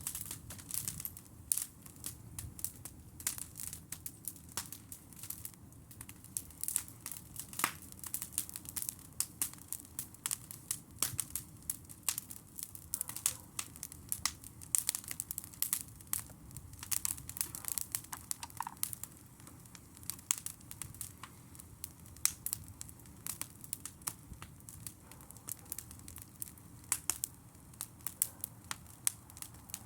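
Campfire crackling, with a steady run of irregular sharp snaps and pops.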